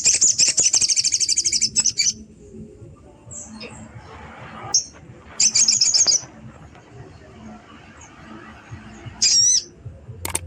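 Crested jay (sogon) giving its challenge call to rivals: a loud, fast rattling trill lasting about two seconds, a shorter rattle midway, and a brief wavering note near the end.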